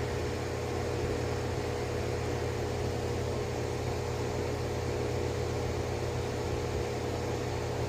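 Air-conditioning system running: a steady hum with fan noise.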